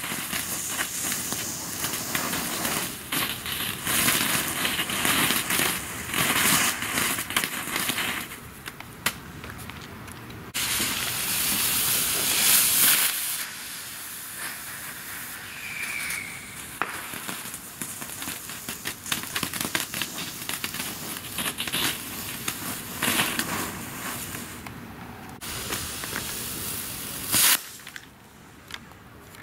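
Novelty firework tanks burning on the ground, hissing and crackling as they spray sparks, in several spells. A single sharp crack near the end.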